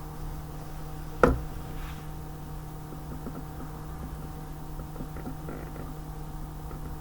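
A single sharp knock about a second in, then faint small clicks and rattles, over a steady low hum.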